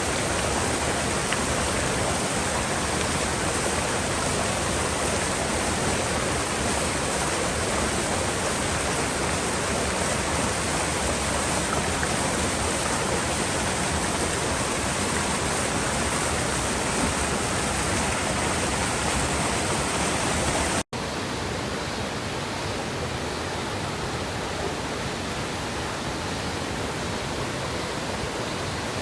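Mountain river water rushing over rocks, a steady dense hiss. About 21 seconds in, a brief dropout and cut to a slightly quieter stretch of rushing water with less hiss on top.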